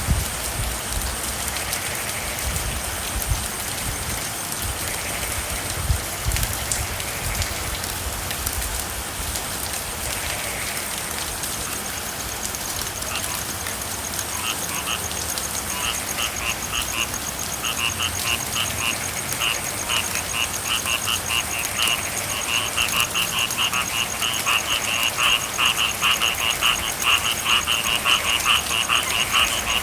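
Steady rain hiss with a chorus of frogs that starts about halfway through in rapid pulsed trills and grows louder toward the end.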